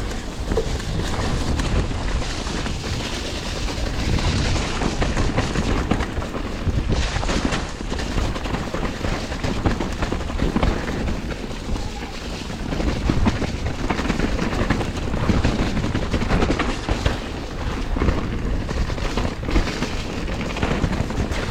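Mountain bike being ridden over a rough, wet, muddy trail: tyres on mud and roots, with the bike rattling and knocking over the bumps throughout.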